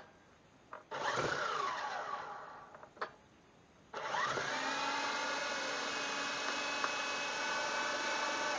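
Small electric rotor motors of an Ozone Elite 3.5-channel toy RC helicopter spinning up with a whine and winding down after about two seconds. A click follows, then the motors spin up again, rising in pitch, and run steadily.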